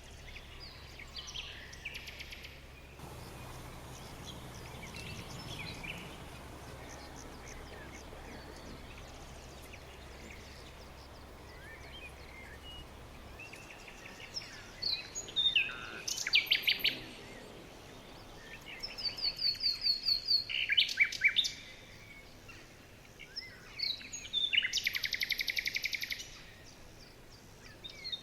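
Small birds singing and calling, faint at first, then louder songs of quick high repeated notes in the second half, including a fast trill lasting about two seconds near the end, over a steady background hiss.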